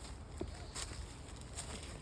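Footsteps on creek gravel and stones: a few light clicks and scuffs over a low rumble.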